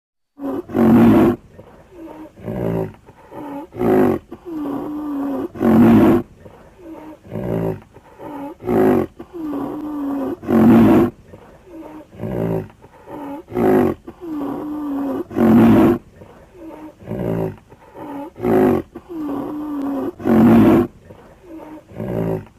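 White rhinoceros calling: a repeating series of loud, harsh calls every few seconds, with quieter, drawn-out calls wavering in pitch between them.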